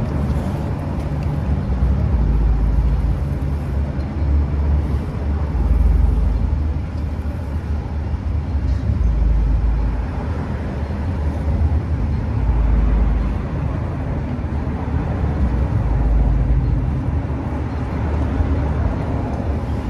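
Harley-Davidson Road Glide's air-cooled V-twin idling steadily, its loudness swelling and easing every few seconds. The engine is being run with the drain open to shake the last of the old oil out.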